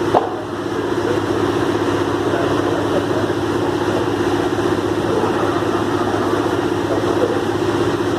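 Heavy truck engine running steadily, with a single short knock just after the start.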